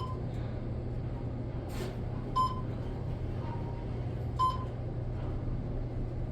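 Schindler elevator car riding up, with a steady low hum and two short high beeps about two seconds apart, the car's floor-passing signal. A brief hiss sounds just before the first beep.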